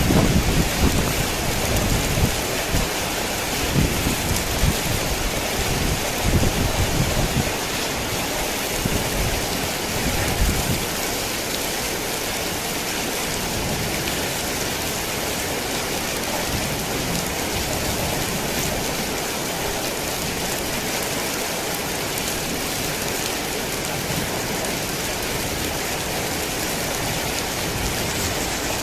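Heavy rain falling steadily, an even dense hiss. A low rumble of thunder rolls through the first ten seconds or so and dies away.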